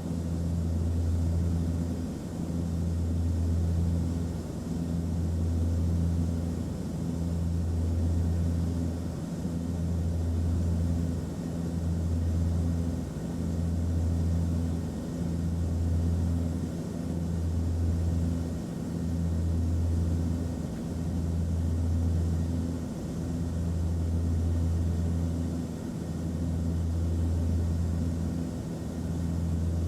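Airplane cabin noise: a steady low drone with a slow, regular throb, about one swell every two seconds, over a faint even hiss.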